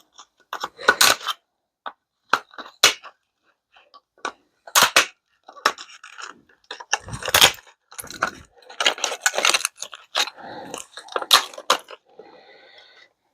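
Small scrap parts from a stripped microwave being handled and dropped into sorting bins: irregular clatter and clicks, with a heavier knock about halfway through.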